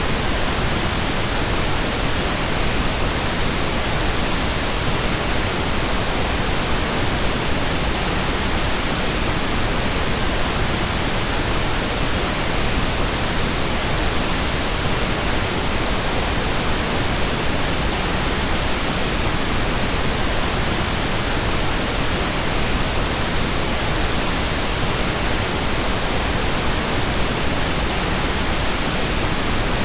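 Pink noise: a steady, unchanging hiss spread evenly across the whole range.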